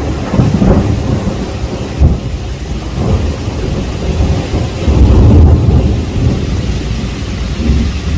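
Thunderstorm: rolling thunder rumbling over heavy rain, with a sharp crack about two seconds in and a louder rumble around five seconds.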